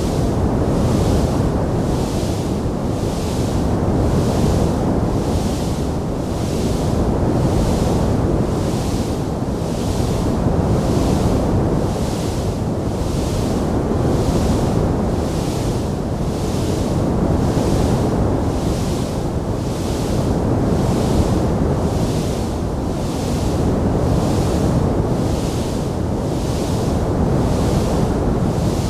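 Wood fire burning in a stone fireplace: a steady rushing roar with a deep rumble, and a high hiss that swells and fades about once a second.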